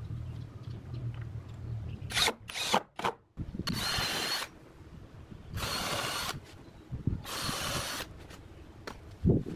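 Power drill running in three short bursts of about a second each, with a faint whine in the first, among clicks and knocks of wood being handled.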